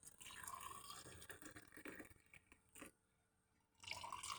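Freshly boiled water being poured from a kettle into a mug, faint, its pitch rising as the mug fills; it stops in the middle and starts again near the end.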